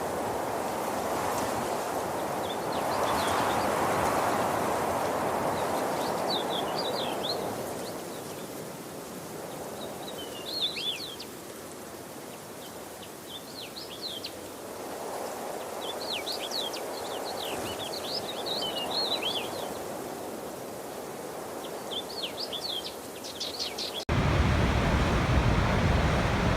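Rushing water with small birds chirping in short, high bursts every few seconds; the rushing swells and fades. Near the end the sound cuts suddenly to a louder, steady rushing noise.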